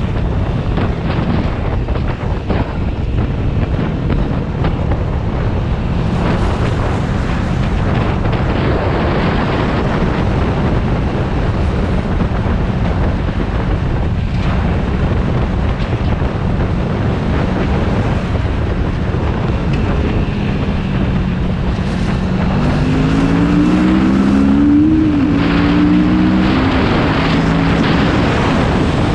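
Motorcycle engine running under way with heavy wind rush on the microphone. Near the end the engine's pitch climbs in several short steps as it accelerates.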